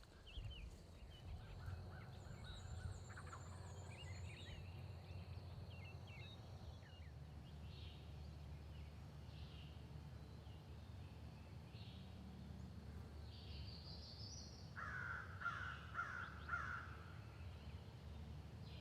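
Wild birds calling in the woods: scattered high chirps and a fast high trill early on, then a short series of four or so louder, harsher calls about three-quarters of the way through, over a faint steady low rumble of outdoor background noise.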